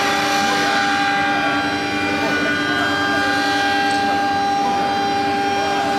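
Air-cooled 3.5 kW spindle of a CNC router running at a steady high whine while cutting fiber board, with the hiss of the cut under it and a few short rising and falling tones over it.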